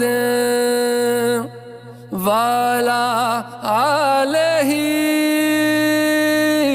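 One voice chanting an Arabic salawat, a blessing on the Prophet Muhammad, in long held notes with wavering melismatic ornaments. The phrases are broken by short pauses.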